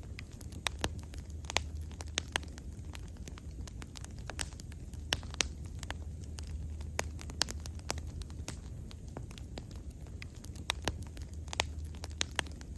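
Bonfire burning, with irregular sharp crackles and pops of the wood over a low steady rumble of the flames.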